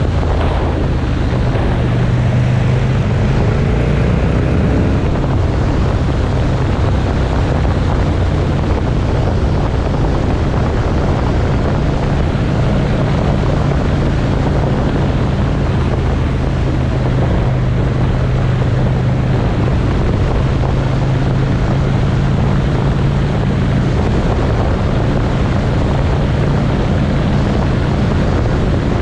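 Motorcycle engine running at a steady cruise, its low drone holding fairly even pitch, with wind rushing over the microphone.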